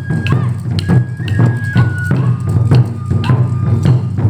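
Japanese taiko drum ensemble playing: a steady, driving low drum pattern with sharp strikes several times a second. Over it a high flute holds long notes that step from one pitch to another.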